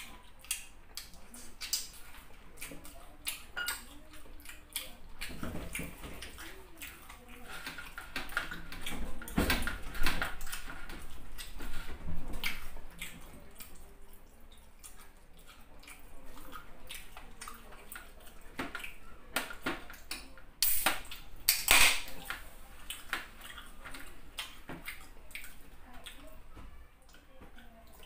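Close-miked eating sounds as chicken is chewed: irregular wet clicks and smacks, with a couple of louder sharp noises about three quarters of the way through. At the very end, orange soda starts pouring into a glass mug.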